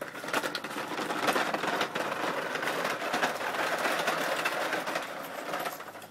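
A big toy truck rattling and clattering as it rolls over the ground, pulled along on a rope, fading near the end.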